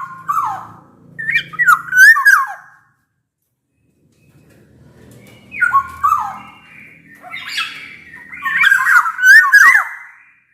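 Black-naped oriole singing: loud, fluty whistled phrases sliding up and down, mixed with harsh squawky notes. A short burst of song comes first, then a pause of about two seconds, then a longer run of phrases.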